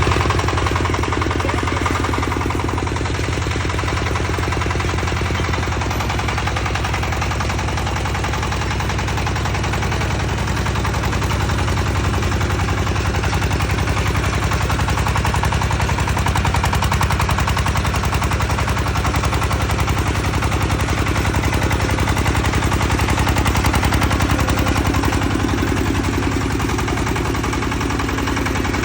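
Small engine of a remote-controlled tracked mini tractor running steadily, a fast, even chatter of firing pulses.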